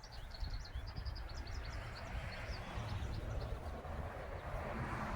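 A vehicle going past: a low rumble and a rushing noise swell, loudest near the end. Small birds chirp throughout.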